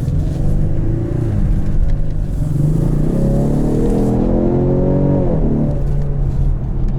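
2020 Ford Mustang EcoBoost's turbocharged 2.3-litre four-cylinder accelerating hard with its active valved exhaust set to quiet mode. The engine note rises with the revs, dips briefly about two seconds in, climbs again, and falls back after about five seconds to a steady drone.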